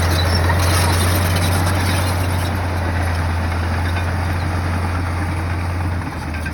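Komatsu bulldozer's diesel engine running steadily, a deep low drone that eases a little near the end.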